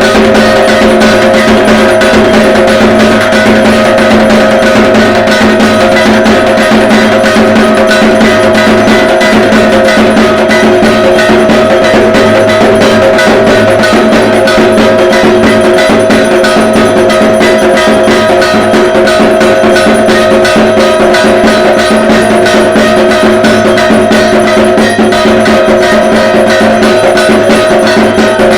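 Dhak, the large Bengali barrel drum of Durga Puja, beaten in a fast, unbroken rhythm, with a steady ringing tone under the strokes.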